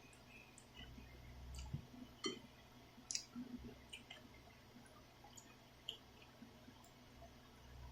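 Faint eating sounds: scattered small wet clicks and smacks of someone chewing black bean ramyun noodles, with a few soft low knocks.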